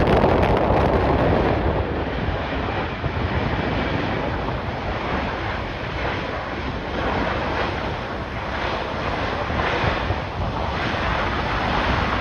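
Strong gusty wind buffeting the microphone: a steady, rushing roar, a little louder in the first couple of seconds.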